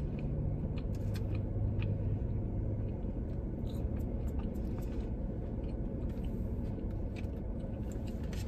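Close-up chewing of food, with small scattered mouth clicks, over a steady low hum.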